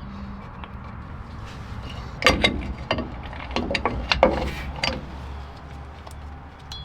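Metal tools and parts clicking and knocking during rear brake work on a 1970 Chevrolet C10, with a cluster of sharp knocks from about two to five seconds in over a low steady hum.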